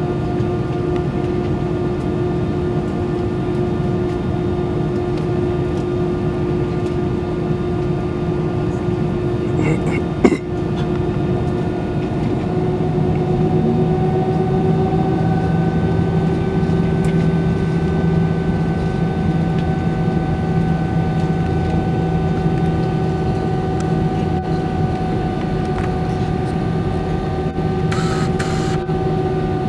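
Steady hum and whine inside an Airbus A320-200 cabin on the ground, with the aircraft running at low power. Its tones rise slightly in pitch and grow a little fuller a little under halfway through, and a single sharp click comes about ten seconds in.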